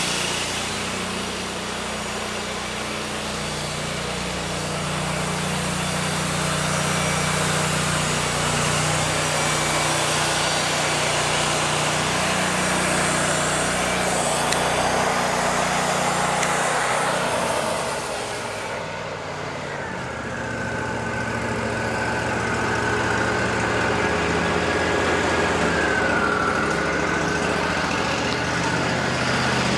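Wood-Mizer LT40 band sawmill running, its band blade cutting through a cedar log with a dense, loud hiss over the steady engine. The cut ends about 18 seconds in, leaving the engine and a steady whine.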